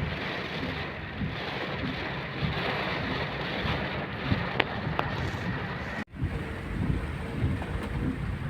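Heavy rain and gusting wind, with the wind rumbling on the microphone. Two sharp ticks come about four and a half seconds in, and the sound drops out for a moment about six seconds in, where the recording cuts.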